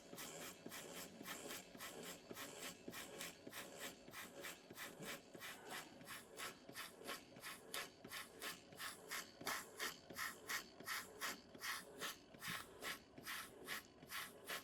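Small Retrol beam steam engine running slowly, its exhaust chuffing faintly at about four puffs a second, the puffs growing stronger toward the end. It is running low on steam, the spirit burner having only just been relit.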